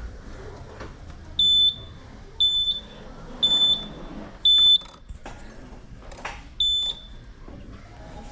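Five short, loud, high-pitched electronic beeps, about one a second, with a gap of one beat before the last.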